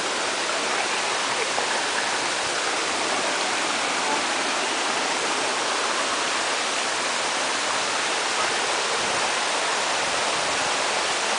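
Steady rushing water, a dense even hiss with no break.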